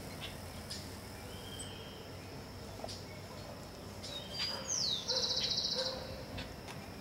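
Small birds calling: short high chirps scattered throughout, and about five seconds in one bird gives a falling whistle that runs into a fast, high trill, the loudest sound.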